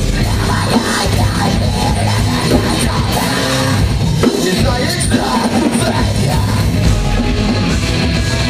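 Live metalcore band playing: distorted guitars, bass and drums with harsh yelled vocals.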